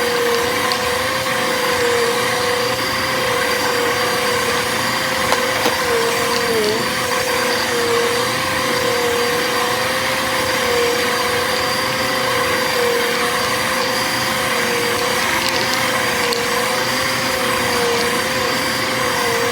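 Bissell upright vacuum cleaner running steadily, its motor tone dipping slightly in pitch now and then as the load changes, with a few faint ticks partway through.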